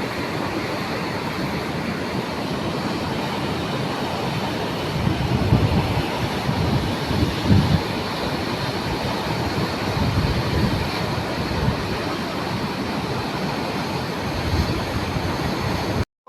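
Steady rumbling noise of a heavy vehicle, with a few louder knocks about five and seven and a half seconds in.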